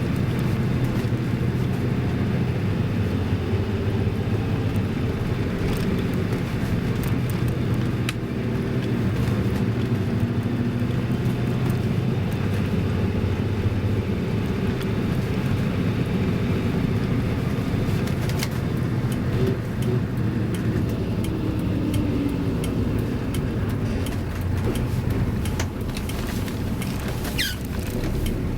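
Toyota Land Cruiser HJ60's 2H straight-six diesel running steadily while the truck is driven, its pitch rising briefly about three quarters of the way in. A brief high falling squeak comes near the end.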